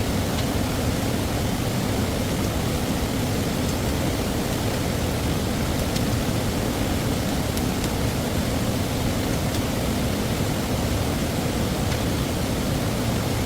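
Steady rushing of stream water, an even noise that does not change, with a few faint ticks.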